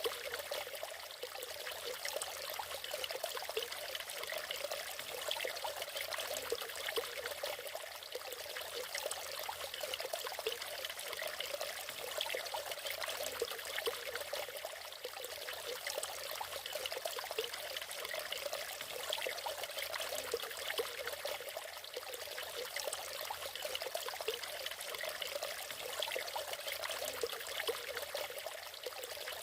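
Water from a small natural waterfall falling and splashing in a steady, unbroken rush with fine bubbling and trickling detail.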